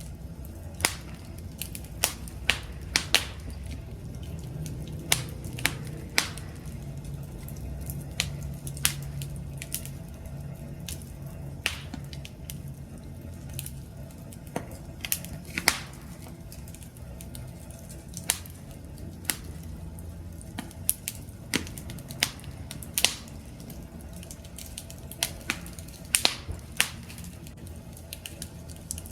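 Campfire burning, its wood crackling and popping in irregular sharp snaps, a few each second, over a low steady rumble of the flames.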